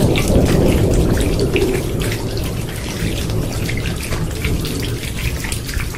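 Heavy rain falling steadily with dense pattering drops. A low thunder rumble dies away about a second in.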